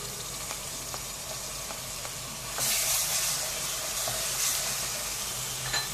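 Onions and ginger-garlic paste frying in hot oil in a pot, sizzling steadily. About two and a half seconds in the sizzle grows louder as the paste is stirred through the oil with a wooden spatula.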